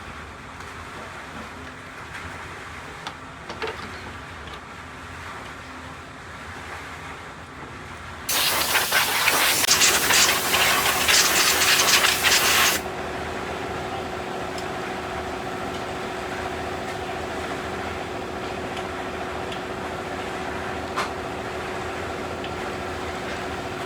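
A loud hissing spray starts about eight seconds in, lasts about four and a half seconds and cuts off suddenly; after it a steady mechanical hum with a held tone continues.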